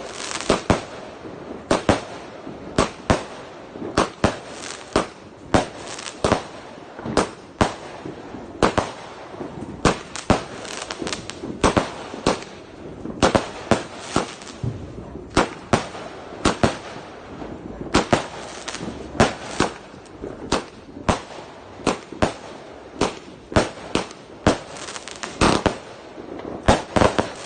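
Multi-shot fireworks cake firing: a long, unbroken run of sharp bangs, about two a second, some louder than others.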